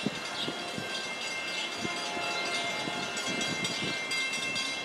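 A train running out of view: a steady hum made of several fixed tones, with scattered short knocks.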